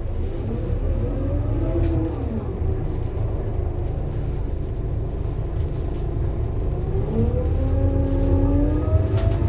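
Scania K230UB bus's five-cylinder diesel engine and ZF Ecomat automatic gearbox pulling under load: the engine's pitch climbs, drops about two seconds in, runs steady, then climbs again from about seven seconds in.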